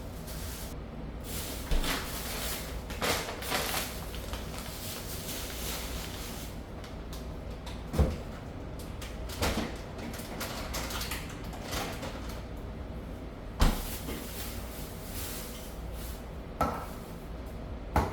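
Objects being handled and set down: a series of separate sharp knocks and thuds, about seven in all, with light rustling between them over a steady low hum.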